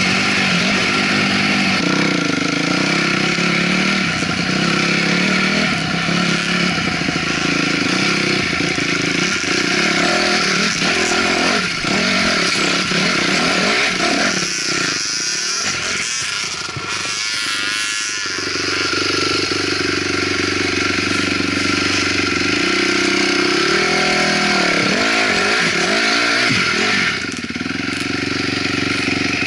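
2008 Honda CRF250R single-cylinder four-stroke dirt bike engine running under load on a trail ride, revs falling and rising with the throttle twice, once in the middle and again near the end.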